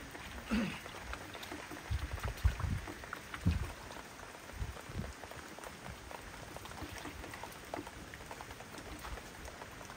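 Rain falling, a steady hiss scattered with the patter of individual drops, with a few dull low thumps in the first few seconds.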